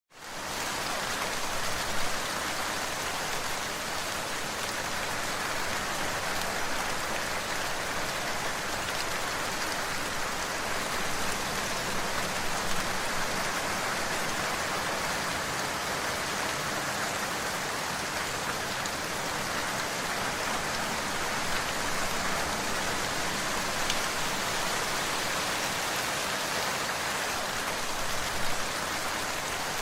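Steady rain falling: an even hiss with now and then a louder drop. It fades in over the first second.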